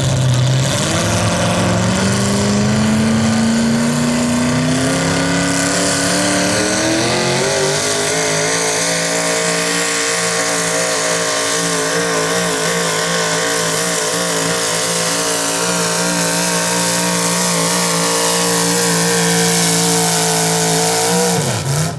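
Small-block V8 engine of a modified 4x4 pulling truck at full throttle, dragging a pulling sled. The revs climb steadily for about seven seconds, then hold high with a slight waver, and fall away sharply near the end as the throttle is let off.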